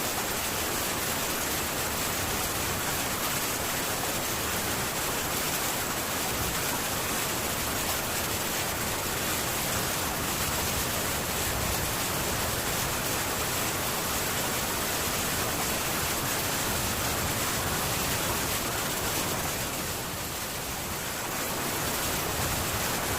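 Heavy rain falling steadily on a metal tin roof, an even dense hiss that dips slightly about twenty seconds in.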